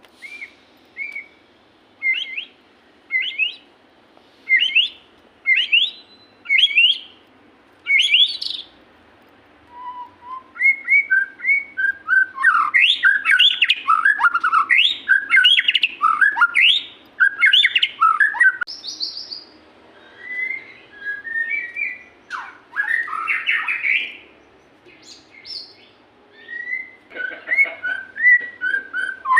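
Murai songbird singing. It starts with a string of short upswept whistles about once a second, then from about ten seconds in breaks into a fast, varied run of whistled phrases.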